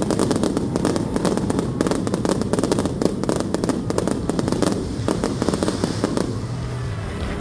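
Fireworks going off in rapid succession: a dense, continuous crackle of many sharp bangs, thinning briefly a couple of times.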